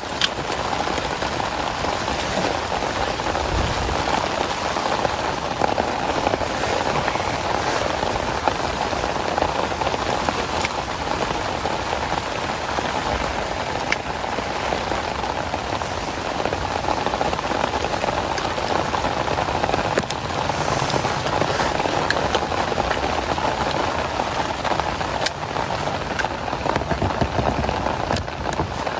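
Heavy rain falling steadily on a surface, with scattered sharper drop hits over the dense patter.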